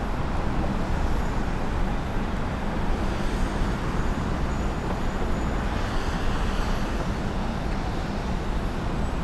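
Steady low jet rumble of a landing Boeing 757-200 on its roll-out, an even noise without sudden changes.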